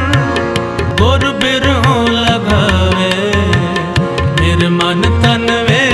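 Gurbani kirtan music: a gliding melody line carried over a steady tabla beat with deep, regularly recurring bass strokes.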